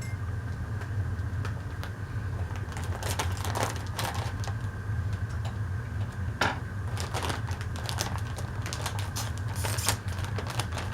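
Scattered clicks, taps and short crinkles of scissors cutting open a plastic cotton candy package and the package being handled, over a steady low hum.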